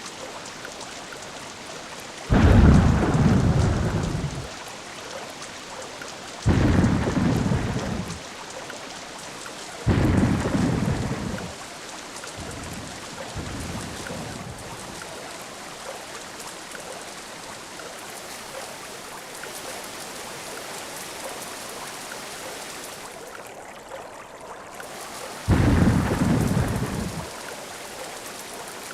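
Steady rain hiss broken by five low rumbles of thunder, each starting suddenly and fading over one to two seconds; the loudest comes about two seconds in and the last near the end.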